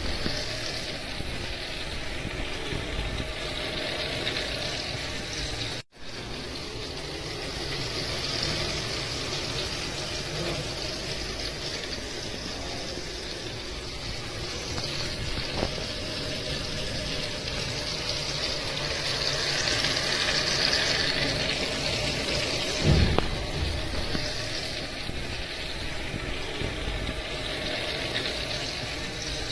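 Heavy rain falling steadily, with a brief dropout about six seconds in and a short low thump about 23 seconds in.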